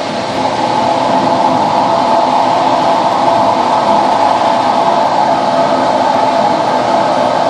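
235 mph electric leaf blower running steadily at full power, forcing air through a dryer vent duct to clear lint. It swells louder in the first half second and then holds an even whir.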